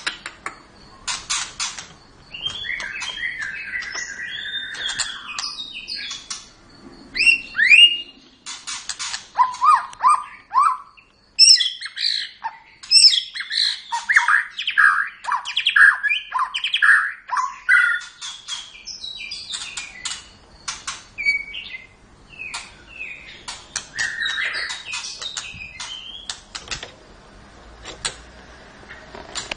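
Birds chirping and calling: a busy run of short chirps and whistled notes that slide up and down, mixed with sharp clicks, densest in the middle.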